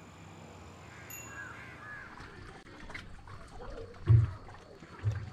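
Birds calling a few times over steady outdoor ambience in the first two seconds. After a break, two dull low thumps about a second apart near the end are the loudest sounds.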